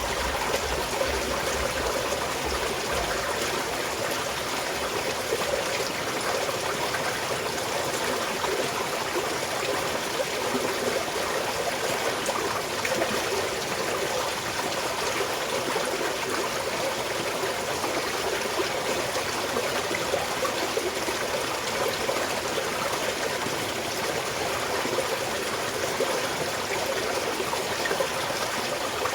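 Small mountain stream of water flowing and trickling steadily over its bed, an even rushing wash with no break. A low rumble sits under it for the first few seconds.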